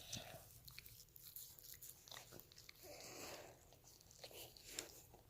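Faint dog chewing: scattered soft clicks and crunches of teeth gnawing and mouthing.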